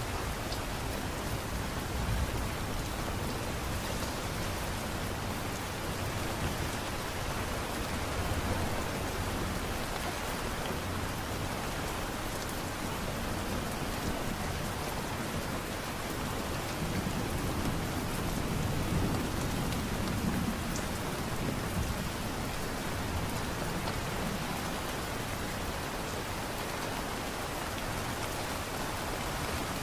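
Steady light rain falling, an even hiss of drops. A low rumble swells and fades about two-thirds of the way through.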